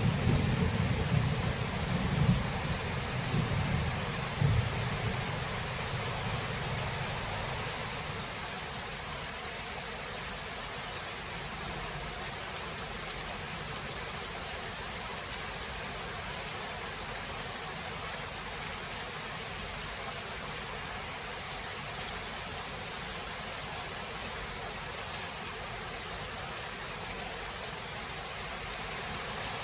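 Rain falling steadily, with the low rumble of a thunderclap dying away over the first several seconds, then an even hiss of rain.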